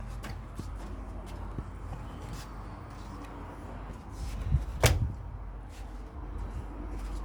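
Handling noises: scattered small clicks and taps over a steady low hum, with a sharper knock about five seconds in.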